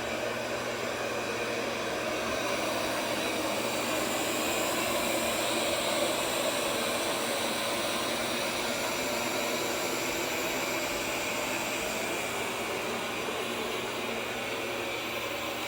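Roborock Q5 Pro robot vacuum running, a steady whir of rushing air from its suction fan with faint steady whining tones over it.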